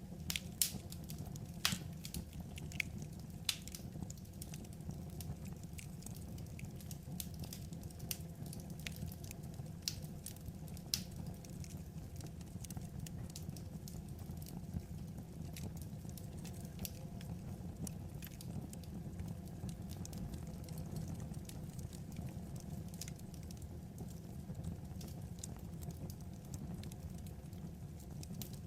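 Wood fire crackling: scattered sharp pops and snaps, more frequent in the first ten seconds or so, over a steady low rumble.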